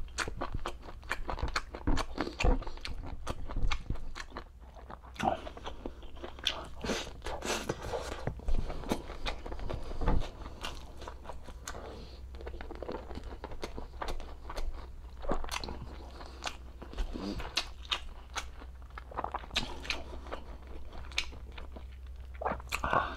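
Close-miked eating sounds: a person chewing and biting braised pork humba and rice, with wet smacks and irregular clicks of the mouth throughout.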